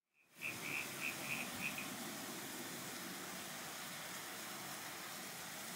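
Steady hiss of rain falling outside. In the first two seconds a short run of about six quick, high pips sounds over it.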